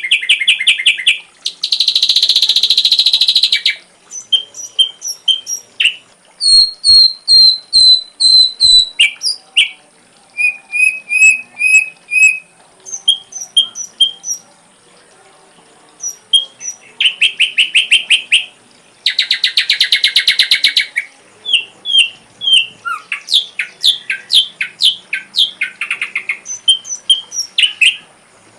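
Ashy drongo singing a long, varied song of sharp chirps and short repeated whistled notes, broken twice by a rapid buzzy trill about two seconds long.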